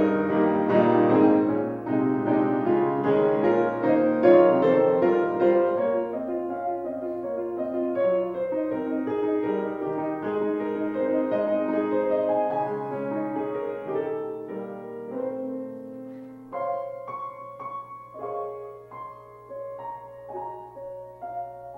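Piano playing instrumental music: full chords at first, then softer, sparser notes through the last few seconds.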